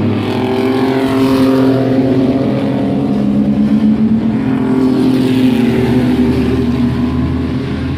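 Several mini truck race engines running hard together as the field laps the oval, their overlapping engine notes drifting slowly up and down as the trucks pass.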